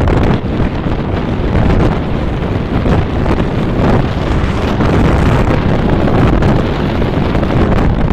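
Wind buffeting the microphone: a loud, steady rumble that keeps fluctuating.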